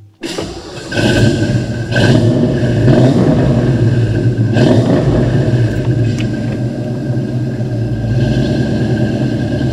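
Ford 5.0-litre V8 of a 1990 Mustang LX, breathing through Flowmaster mufflers, catching right at the start and running loudly at idle. Short throttle blips come at about one, two and four and a half seconds in.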